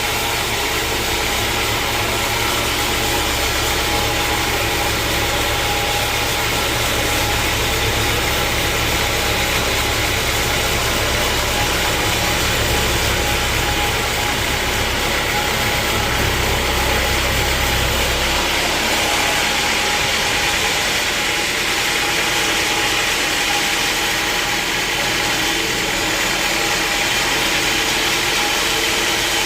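Sawmill machinery running steadily, with a constant mechanical noise; a low hum underneath stops about two-thirds of the way through.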